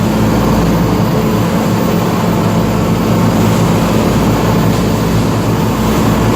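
A fishing boat's engine running steadily under way, a constant low drone, with wind rushing over the microphone.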